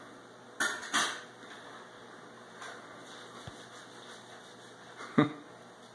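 Quiet room tone in a small room, broken by two short hissy sounds about half a second and a second in, and one sharp click about five seconds in.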